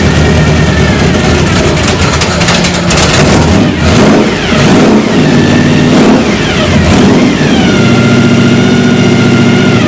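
V8 engine with oval port heads running with its valve covers off on its first fire-up after the heads were fitted, revved up and down several times.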